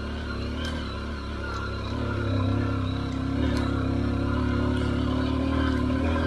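Honda XR150's single-cylinder four-stroke engine pulling up a steep, rocky dirt climb, getting louder about two seconds in, with a few sharp clicks over it.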